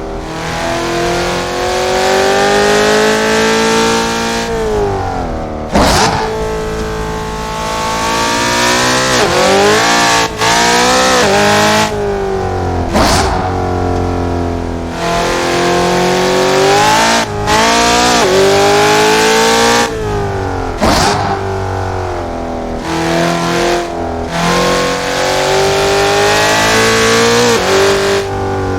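Car engine heard from onboard on a fast lap, its pitch climbing and falling as it is driven through the gears. There are sharp breaks at gear changes about every three to four seconds, over a steady hiss.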